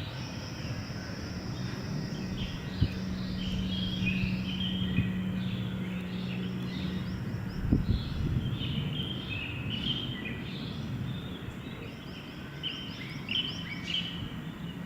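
Small birds chirping and calling over a steady low outdoor rumble, with a low steady hum through the first half and a single dull thump about eight seconds in.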